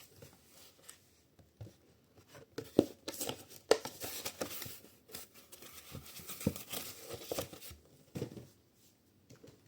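Plastic parts of a small umbrella humidifier being handled and fitted together: scattered clicks and knocks with scraping and rustling, as the cover goes onto the water-filled base.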